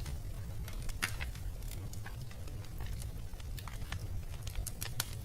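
Fireplace fire crackling: irregular sharp snaps and pops over a low steady rumble.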